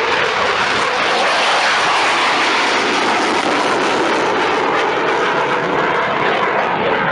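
Loud, steady jet noise from a Eurofighter Typhoon's twin EJ200 turbofan engines.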